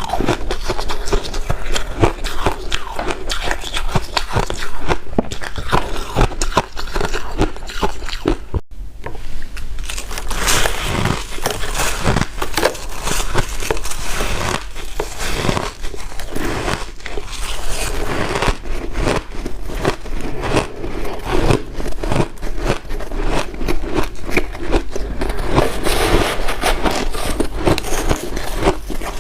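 Close-up crunching of white ice being bitten and chewed: a dense, continuous run of crisp crunches, broken by a brief gap about a third of the way through.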